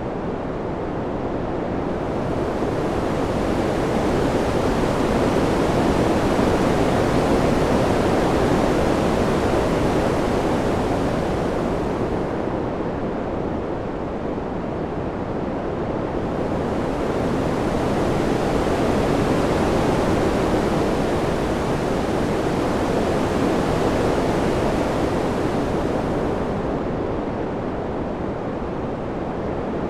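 Wind rushing steadily, swelling and easing slowly twice, with its high hiss dropping away in each lull.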